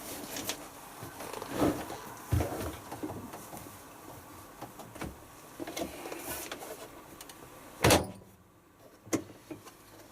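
Scattered clicks and knocks from a washing machine being handled while its wash is set up, with one loud thump about eight seconds in.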